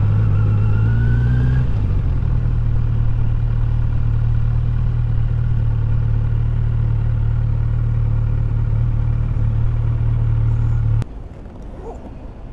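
Kawasaki Z900 SE's inline-four engine running at a steady pitch, then stopping suddenly near the end.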